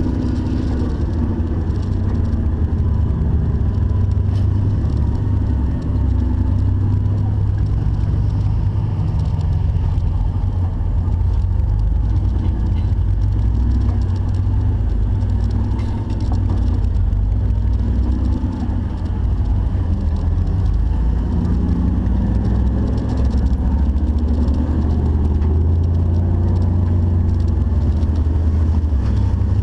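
A 4x4 Jeep's engine running under low, slowly varying load, a steady deep rumble heard continuously.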